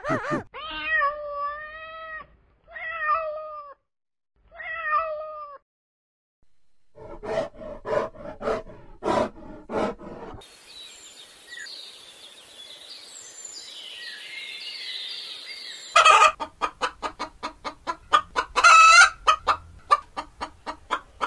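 Different animal calls one after another: three drawn-out, meow-like calls that bend in pitch, then a few seconds of short pulsing calls, then a stretch of faint noise. From about two-thirds of the way in, chickens cluck in quick bursts.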